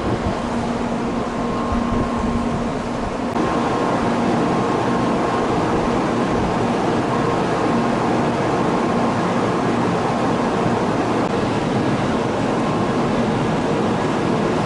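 Electric train running on the Iida Line, a steady rumble of wheels on rail with a faint steady whine; it gets louder a few seconds in.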